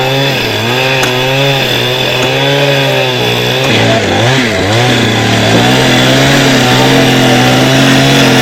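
Two-stroke chainsaw running, its engine speed rising and dipping again and again, with a brief deeper dip about four seconds in before it settles into a steadier run.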